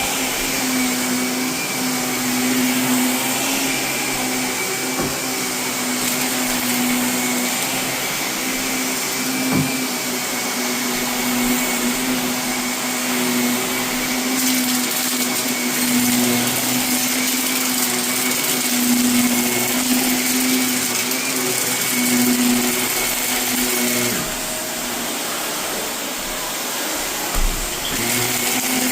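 Vacuum cleaner running steadily over carpet, its motor giving a steady hum under the rush of air, with a few sharp clicks as bits of renovation debris are sucked up.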